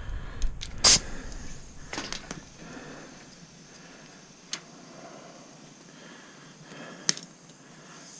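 Handling noise from an air hose and its chuck being brought to a garden wagon's tire valve: a sharp click about a second in, then a few lighter clicks and knocks spread out over otherwise quiet background.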